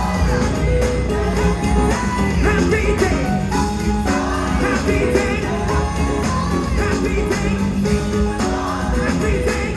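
Live gospel music: voices singing together over a band with a strong bass line and a steady beat.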